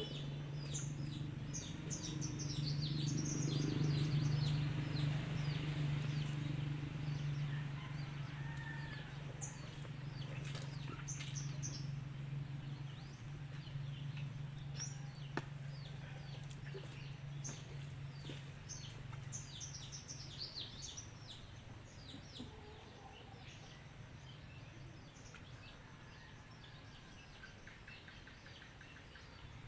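Small birds chirping repeatedly, with a low steady hum underneath that swells in the first few seconds and dies away about two-thirds of the way through.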